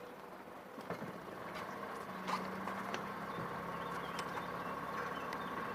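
A boat's engine running steadily at low revs, a hum that comes up about two seconds in, with a few scattered knocks around it.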